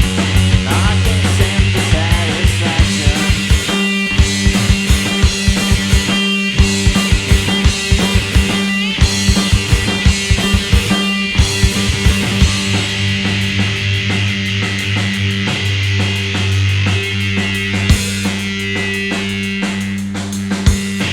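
Live rock trio playing an instrumental passage on electric guitar, bass guitar and drum kit. Fast, dense drum hits drive the first half, then the band settles into held, ringing chords with only occasional drum strikes.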